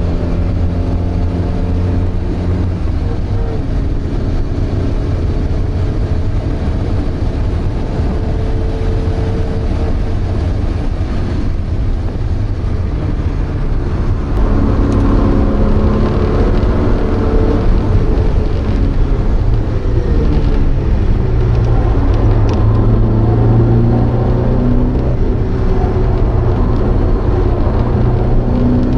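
Porsche 924's 2.0-litre four-cylinder engine at speed, heard from inside the cabin of the race car. The engine note shifts in pitch as it goes and gets louder about halfway through.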